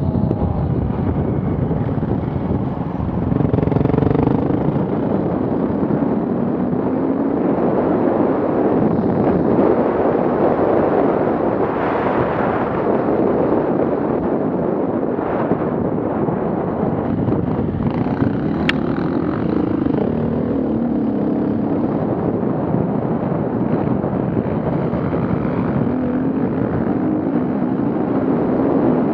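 Off-road vehicle engines running and revving, rising and falling in pitch several times, with wind rumbling on the microphone. A single sharp click comes about two-thirds of the way through.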